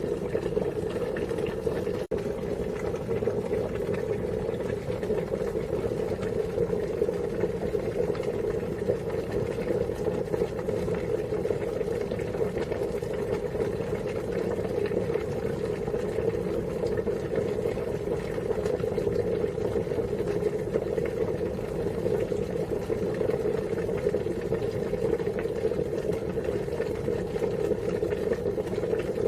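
Water boiling steadily, a continuous even bubbling that holds the same level throughout, with a split-second gap about two seconds in.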